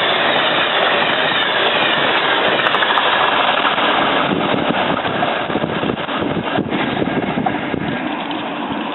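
Amtrak passenger train hauled by an AEM-7AC electric locomotive passing at speed: a loud, steady rush of wheels on rail. From about halfway through it turns choppier, and it eases off slightly toward the end.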